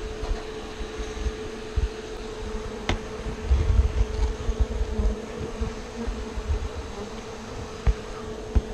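Feral honeybees buzzing in a steady hum around an opened hive, with low irregular bumps and one sharp click about three seconds in.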